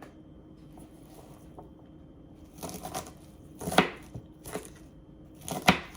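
Kitchen knife on a cutting board with chopped romaine lettuce: a few separate sharp chops or scrapes, the loudest about four seconds in and another near the end.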